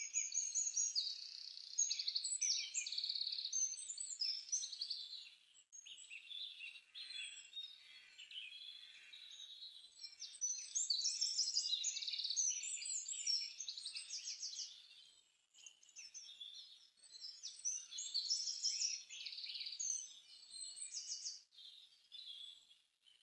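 Songbirds chirping and singing together, many high, quick trills and chirps overlapping, thinning out briefly a few times.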